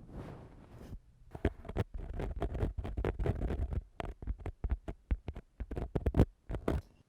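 Ear-cleaning tool scraping and rubbing inside a microphone's ear for ASMR, in quick irregular strokes with sharp clicks, after a short pause about a second in. The scraping stops just before the end.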